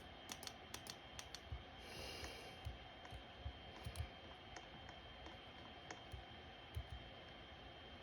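Ceiling fan running on a low speed, with irregular light clicks and ticks over a faint steady hum; a short hiss about two seconds in.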